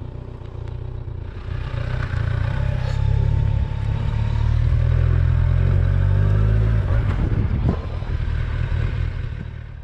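Kawasaki Ninja 1000's inline-four engine running under way and picking up revs about a second in. It stays strong through the middle and dips briefly near the end.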